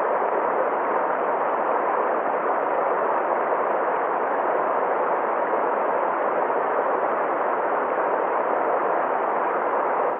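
Steady rushing water, an even, unbroken hiss of noise.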